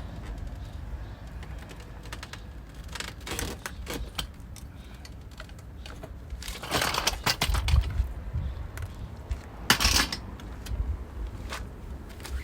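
Metal hand tools and small parts clinking and rattling in several short bursts, with the loudest clatter a little past the middle and again near the end.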